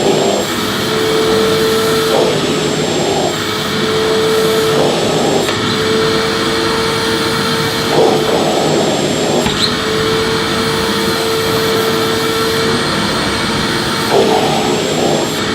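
Vacuum cleaner running and being used to sweep, with a steady whine. Every second or two the whine breaks off under a short rush of air, as the nozzle is pushed back and forth.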